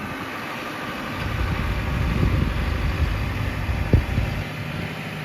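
Tractor engine running, growing louder and heavier about a second in as it works under load, with a single sharp knock near four seconds, then settling to a steadier hum.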